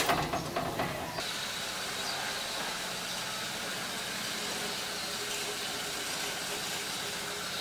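Steady low hum of a car engine idling, after a few clicks and knocks in the first second.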